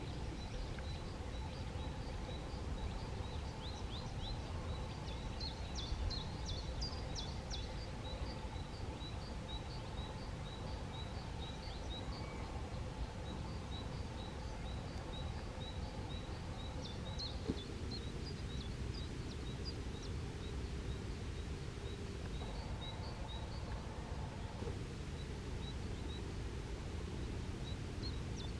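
Outdoor ambience: a steady low rumble of background noise, over which a small bird repeats a short high chirp about twice a second, with a brief quicker flurry of notes a few seconds in.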